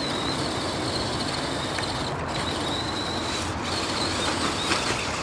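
Steady rush of river water, with the thin whine of a scale RC crawler's electric motor and gearbox coming and going over it.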